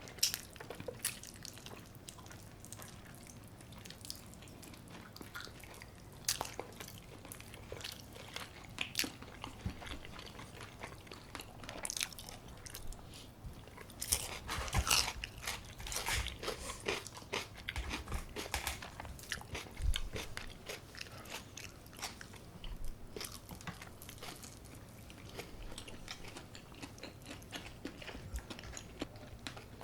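Close-up biting and chewing of crunchy brown-rice-crusted baked chicken: irregular crisp crunches with wet chewing between them, busiest about halfway through.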